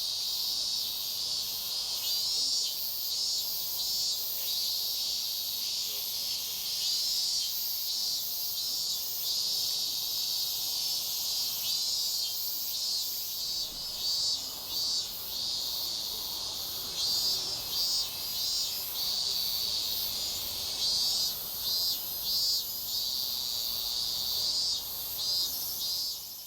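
A dense chorus of insects shrilling steadily, high-pitched with rapid pulsing, fading out at the very end.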